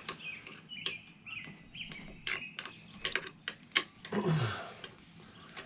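Irregular sharp clicks and taps of tools working on a motorcycle, with birds chirping in short phrases during the first half.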